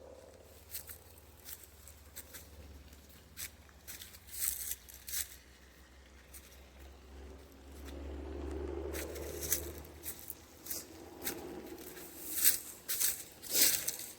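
Footsteps crunching and crackling irregularly on the ground of a hiking trail, walking downhill. A low rumble swells and fades about eight to ten seconds in.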